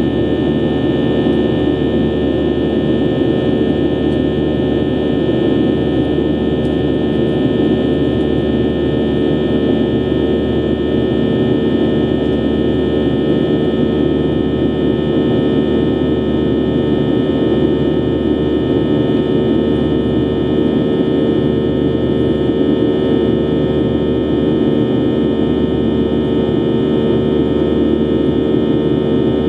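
Steady cabin drone of a Boeing 737-800's CFM56-7B turbofan engines, heard from inside the passenger cabin, with a constant hum and several fixed whining tones and no change in pitch or level.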